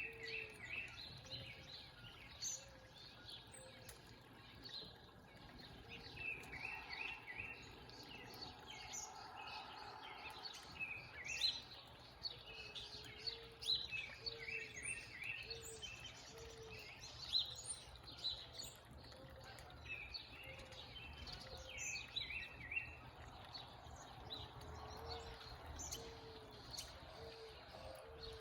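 Several backyard songbirds chirping and singing, with phrases of a few quick notes repeated over and over and a short low note recurring every second or two, over a steady low background noise.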